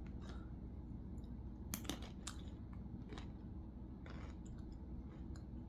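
Faint chewing of a crunchy dill-pickle-seasoned snack, with a few sharp crunches, the clearest around two and three seconds in.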